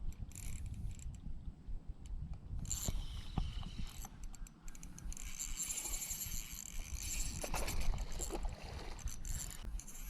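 Tokushima DG fishing reel winding in line against a hooked fish, its gears whirring and rasping in stretches, thickening from about halfway in. A low rumble of wind on the microphone runs under it.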